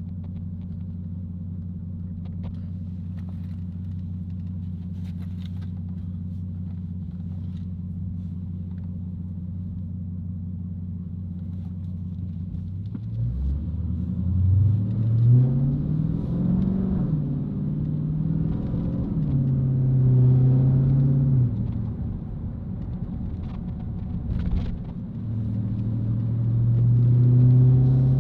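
Dodge Challenger Hellcat's supercharged V8 running steadily at low revs, then from about halfway through accelerating hard. The engine note climbs, drops back at gear changes, and climbs again near the end.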